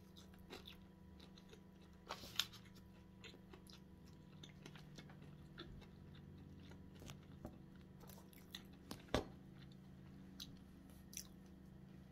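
A person biting into and chewing a breaded fried chicken sandwich on a soft bun: faint, scattered crunches and mouth clicks, the loudest about two and a half seconds in and again about nine seconds in.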